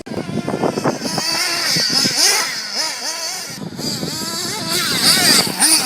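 Nitro engine of a 1/8 scale RC buggy revving up and down as it is driven, a high-pitched buzzing whine that rises and falls with throttle. The sound drops out briefly a little past halfway, then rises again to its loudest near the end.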